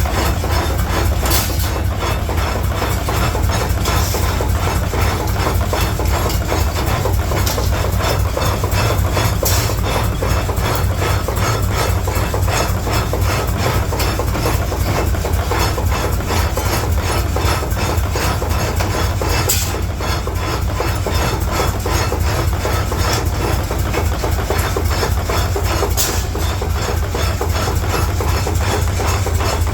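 Forge-shop machinery running with a loud, steady low drone, with a few sharp knocks scattered through it, several seconds apart.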